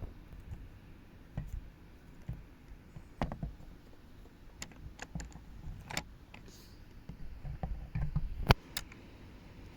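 Irregular small clicks and knocks of plastic Lego pieces being handled, a few each second at most, with the sharpest click near the end.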